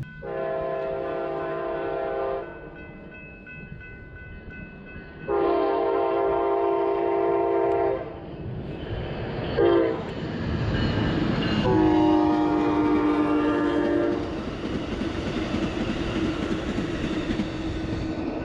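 Passenger train horn sounding the grade-crossing signal: two long blasts, a short one, then a long one, each a chord of several notes. The rumble and clatter of the train's wheels on the rails run under the horn and carry on after it.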